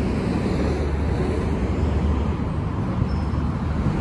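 Street traffic: a steady low rumble of vehicle engines with road noise.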